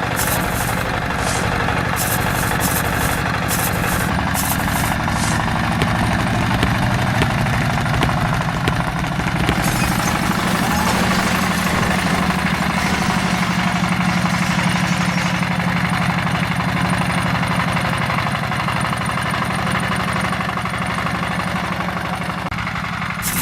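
Small engine of a DIY mini tractor running steadily with a fast, even beat, with some rattling in the first few seconds.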